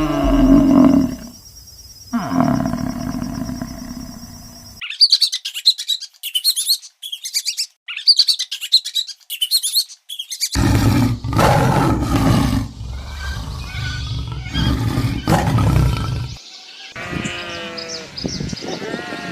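A string of different animal calls, one after another: high, rapid bird chirps for several seconds, then loud, deep calls from a large animal, and a pitched, wavering cry near the end.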